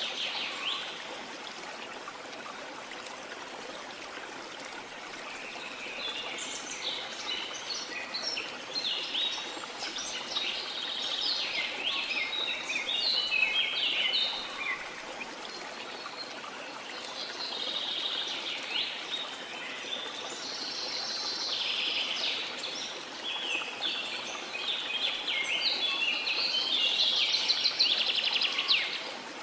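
Steady rush of a waterfall, with birds singing over it in two long bouts of quick, high chirping notes.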